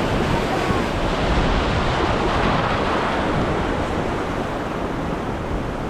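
Surf washing over a shallow reef edge, a steady rush of water that swells a little midway, with wind on the microphone.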